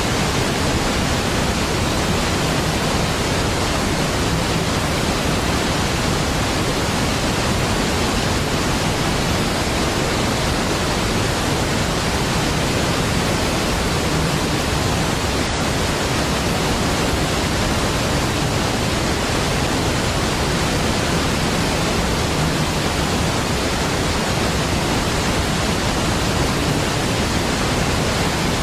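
Large waterfall's steady roar of falling water, an even, unchanging rush across high and low pitches.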